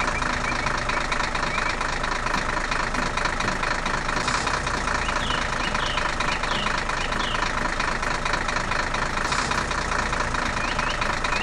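Tractor engine running steadily with a dense, rapid clatter.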